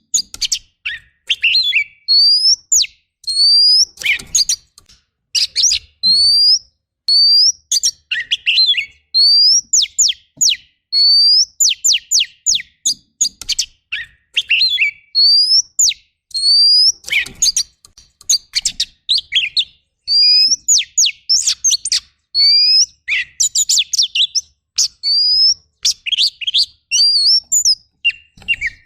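Oriental magpie-robin (kacer) singing a fast, varied song with almost no pause: short rising whistles repeated about once a second, broken up by quick runs of sharp downward-slurred notes.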